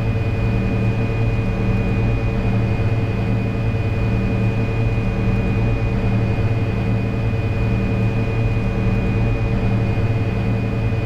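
Fokker 100 on its takeoff roll at takeoff power, heard from the cockpit: a steady loud drone of its two rear-mounted Rolls-Royce Tay turbofans and the rumble of the roll, with a thin high whine and a low throb repeating about once a second.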